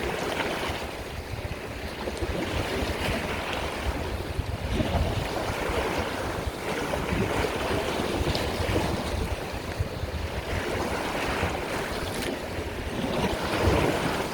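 Sea waves washing onto the shore: a continuous rushing surf with a low rumble underneath, swelling and easing slightly as waves come in.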